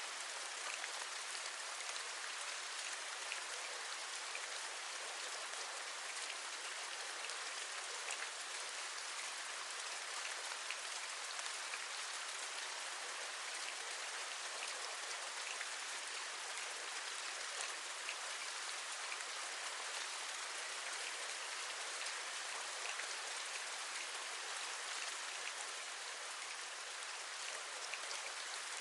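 Steady rain falling, a continuous even hiss with many small drops ticking on a hard surface.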